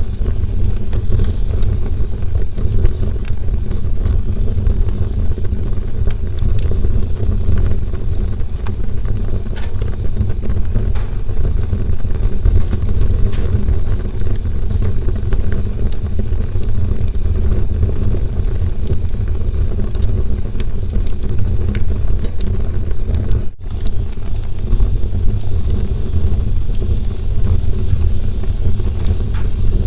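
Campfire burning, with a steady low roar of flames and scattered sharp crackles and pops. The sound drops out for a split second about three-quarters of the way through.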